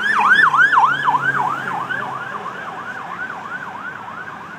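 Emergency vehicle siren in a fast yelp, a quick rising sweep repeated about three times a second, fading steadily as it moves away.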